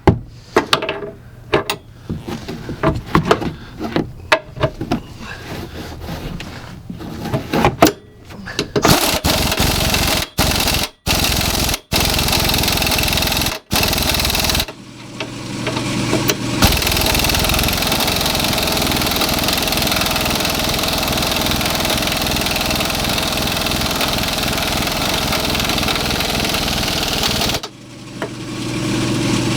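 Clicks and knocks of a hitch bolt being handled and started by hand, then a power tool, likely an impact wrench, driving the bolt into the SUV frame's cleaned-out weld nut. It runs in a few short bursts with brief stops, then steadily for about twelve seconds before stopping near the end.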